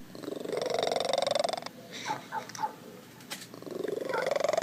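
Domestic cat making an odd, rapidly pulsing call that rises in pitch and lasts over a second, twice, with three short chirps between the two.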